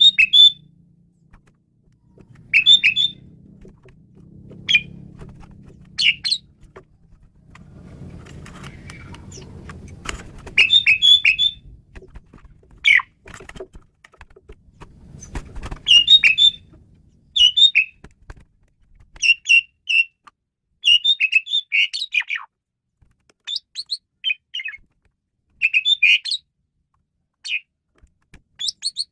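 Asian pied starling (jalak suren) singing: short bursts of rapid whistled and chattering notes, repeated every second or two with brief pauses between.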